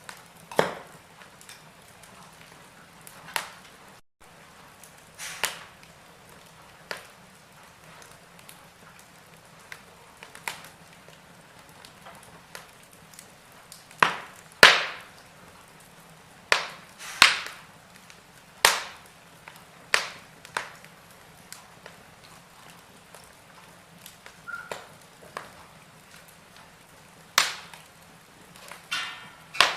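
Wood fire burning in a fireplace: irregular sharp pops and crackles, some loud and some faint, over a soft steady hiss.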